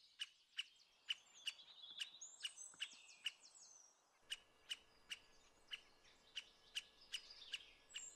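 Faint forest birdsong: a short, sharp chip note repeating about two to three times a second, with a higher twittering call about two to three seconds in.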